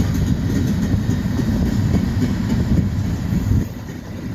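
Low, steady rumble of a train rolling past, easing off a little near the end.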